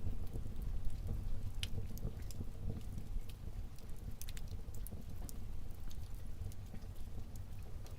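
Wood fire burning in a fireplace: irregular crackles and pops over a low steady rumble of the flames.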